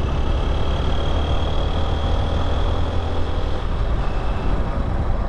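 Motorcycle running steadily on the move, its engine drone mixed with a continuous low wind rumble on the microphone.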